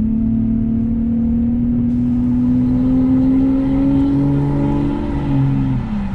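Straight-piped V12 of a BMW 7 Series accelerating, its exhaust note climbing steadily in pitch under load, then falling away near the end as the revs drop.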